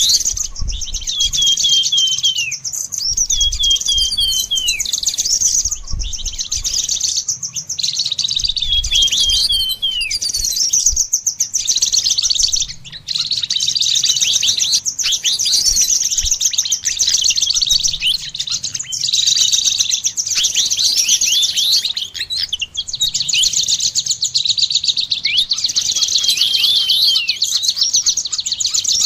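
Songbirds singing continuously in a dense, high-pitched twitter. Runs of quick down-slurred notes recur several times through it.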